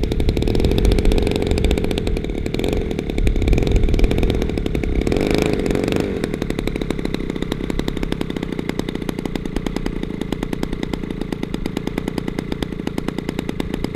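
Zenoah G-62 single-cylinder two-stroke gas engine of a large RC P-47 running at low throttle, louder and rougher for the first six seconds, then settling into an even, fast-pulsing idle.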